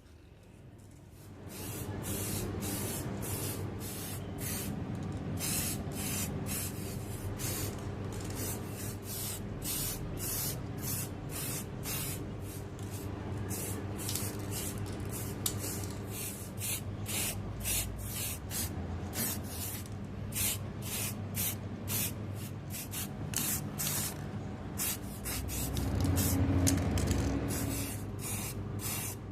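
Spray nozzle hissing in quick, repeated short bursts over a steady motor hum, starting about a second and a half in; the hum grows louder near the end.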